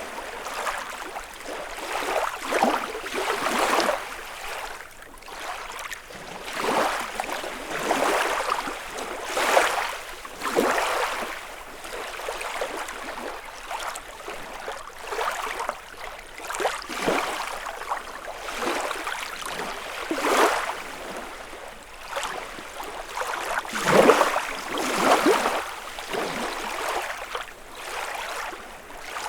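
Small lake waves lapping against the shore, a splash every second or two with the largest one about three quarters of the way through.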